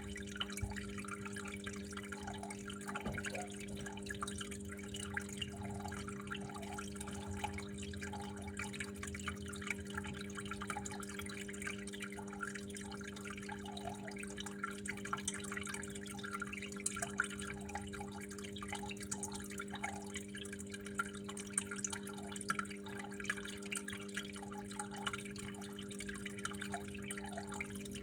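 Water trickling and dripping continuously in a steady patter of small splashes, over a steady low hum.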